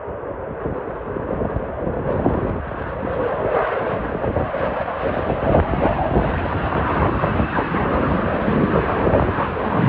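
F-35 fighter jet's engine noise, growing steadily louder as the jet approaches.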